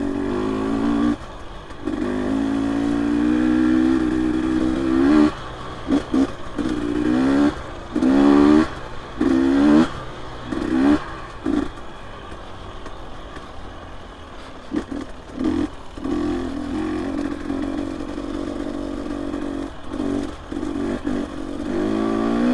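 Dirt bike engine on a single-track trail, revved in short rising bursts with the throttle chopped between them, then pulling more steadily with a few quick blips near the end.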